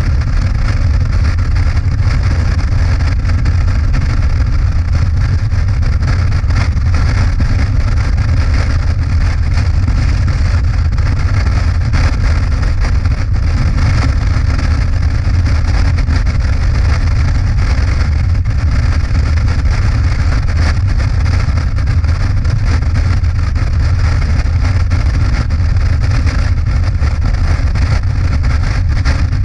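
Motorcycle riding at a steady cruising speed: an even engine drone under a constant rush of wind, with no change in speed.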